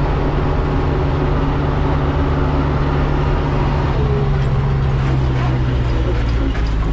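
Farm tractor engine running steadily, its note shifting to a different pitch about four seconds in.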